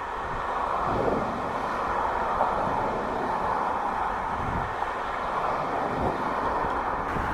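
Steady road and wind noise from a car being driven, a constant rushing with a low rumble underneath.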